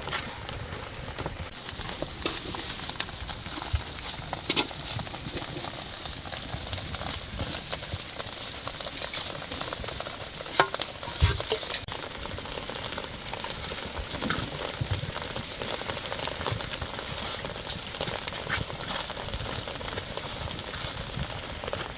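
Steady hiss of rain on the roof, sprinkled with small clicks, and a couple of louder knocks about ten and eleven seconds in as dough is worked by hand in a metal bowl.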